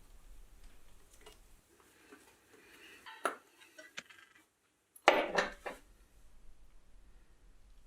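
Metal parts and tools clinking and clattering as they are handled, in scattered sharp knocks with the loudest clatter about five seconds in.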